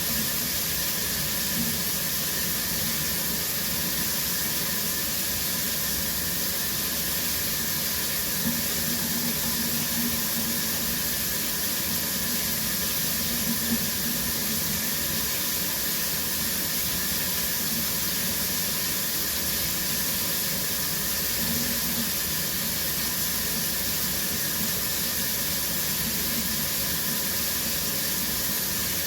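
Shower running steadily, a spray of water falling in a constant even hiss with a slight low splash band underneath.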